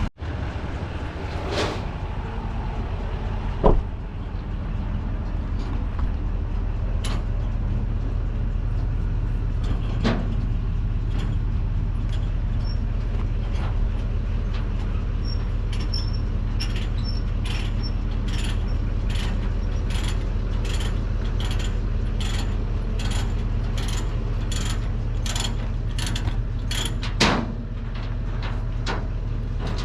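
Steady low rumble of a pickup truck on the road towing a loaded trailer. Through the second half there is an even ticking, a little under two ticks a second.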